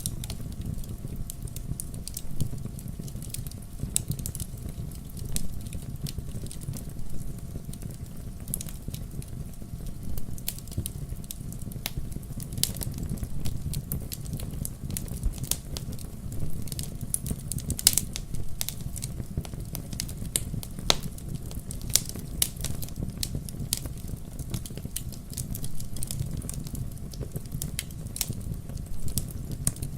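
Wood logs burning in a fireplace: a steady low rumble of flame with frequent irregular sharp crackles and pops.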